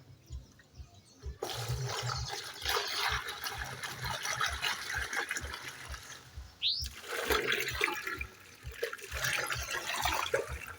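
Rushing, splashing water that starts suddenly about a second and a half in, breaks off for a moment past the middle, then comes back. A short rising squeak sounds during the break.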